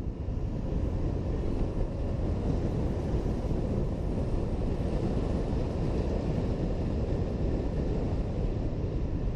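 Steady riding noise from a Honda PCX 125 scooter under way: wind buffeting the helmet camera's microphone over the scooter's running engine and road noise, with no sudden events.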